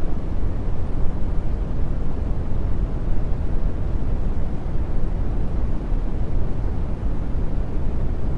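Steady brown noise: an even, deep hiss weighted heavily to the bass, with no tones, rhythm or breaks.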